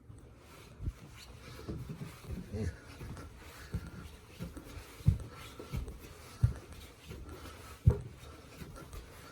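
A series of soft, low thumps, some more than a second apart, over faint rustling; the loudest comes near the end.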